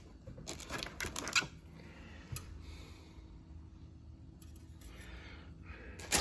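Plastic bags and parts of a scale-model kit being handled: short crinkling rustles and light clicks in a few clusters, with a sharper click near the end.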